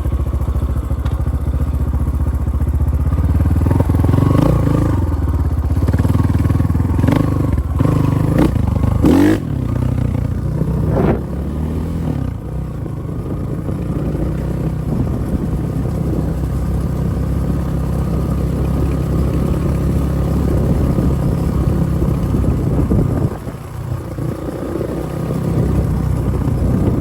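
Spark SP250P-2 enduro motorcycle engine running, revved up and down several times with a few sharp knocks in the first half, then running steadily, easing off briefly near the end.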